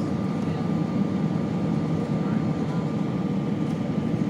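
Airbus A319 jet engines running steadily on final approach: a low, even rumble with a thin steady whine above it.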